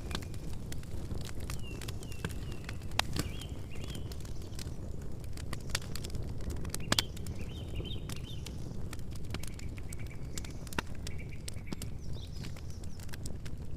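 Campfire crackling, with scattered sharp pops over a steady low rush, while small birds chirp in short high phrases now and then.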